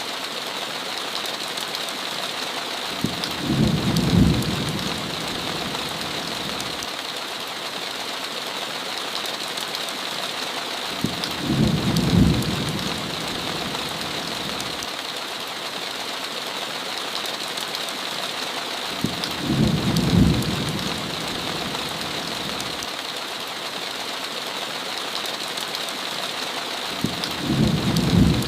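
Steady hiss of heavy rain, with a low rumble of thunder four times, evenly spaced about eight seconds apart, each lasting about two seconds.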